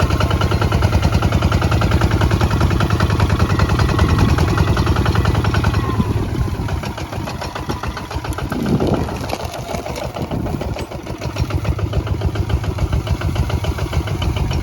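Kubota ZT155 single-cylinder diesel engine running with a steady, rapid chugging beat. It quietens down about halfway through and comes back up near the end.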